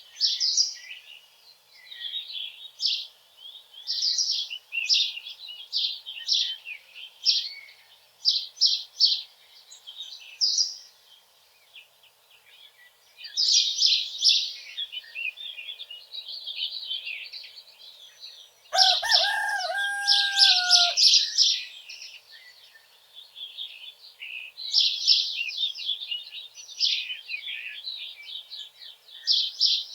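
Small songbirds chirping and twittering in quick, repeated phrases throughout. About two-thirds of the way in, a rooster crows once, for about two seconds.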